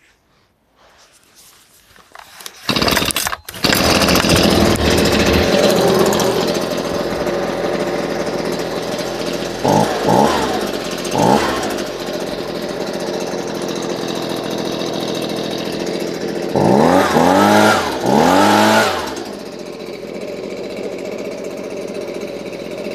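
Husqvarna 125BVx two-stroke leaf blower started cold: the engine catches about three seconds in and runs fast and steady. It is revved up and down in two short blips around ten and eleven seconds, then in two longer revs around seventeen to nineteen seconds. It then settles to a lower, quieter idle.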